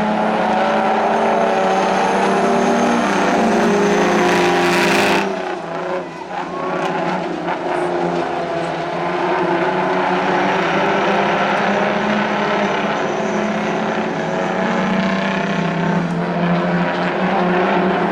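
Several racing semi-truck diesel engines running hard together, their pitches shifting as they race. About five seconds in the sound drops off suddenly, then builds back up to a steady, loud drone.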